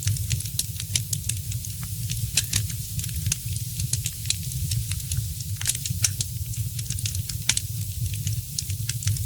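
Fire in a fireplace crackling, with many sharp, irregular pops and snaps several times a second over a steady low rumble of the flames.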